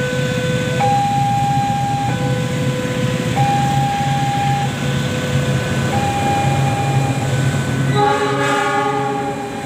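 Railroad level-crossing warning alarm sounding two alternating tones, switching about every second and a quarter, over the steady low rumble of a train. About eight seconds in, a locomotive horn sounds for about a second and a half.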